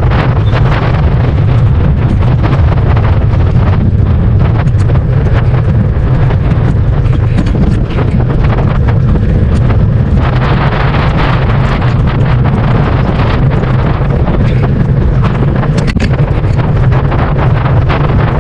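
Wind rumbling loudly on the microphone of a bicycle rider riding along, a steady low roar with hiss that grows a little stronger about ten seconds in.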